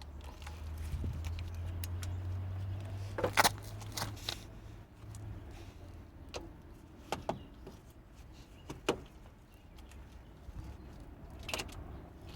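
Metal hand tools and parts clinking and clattering: a few sharp clinks spread unevenly through, the loudest about three seconds in. A low steady hum runs under the first half and then fades out.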